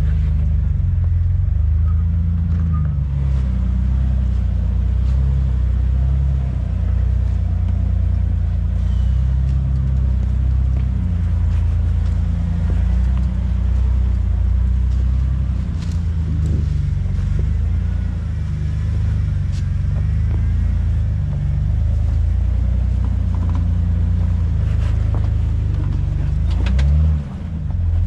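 Jeep Wrangler engine running as it drives an off-road trail, a loud low drone whose pitch keeps shifting up and down with the throttle. Near the end it briefly drops off and then picks back up.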